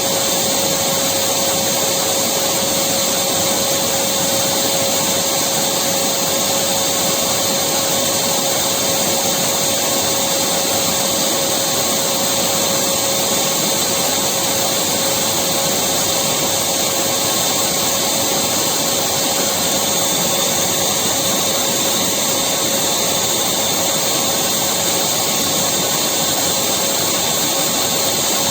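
Electric vacuum cleaner running continuously at a steady pitch, a loud even whoosh of motor and airflow with a constant hum, no change in speed.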